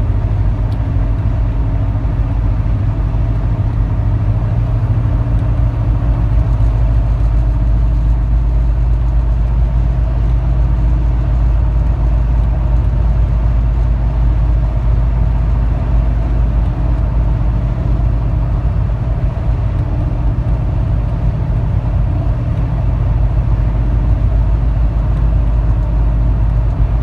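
Jeep Cherokee XJ's 4.0 L straight-six at steady highway cruise, heard from inside the cab through a Banks torque tube header and Flowmaster Super 10 muffler: a constant low exhaust drone. Tire and wind noise from oversized all-terrain tires run underneath it.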